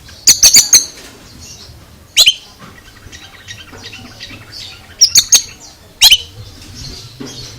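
Oriental magpie-robin (kacer) calling: loud, sharp, high notes sweeping downward, given in short clusters four times, with quieter twittering in between. This is the unusual voice of the bird that the title calls strange.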